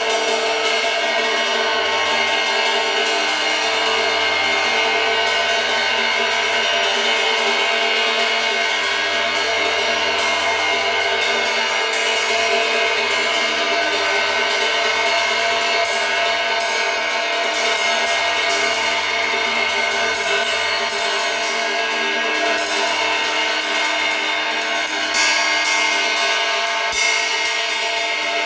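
Continuous pink noise: an even, steady hiss that does not change.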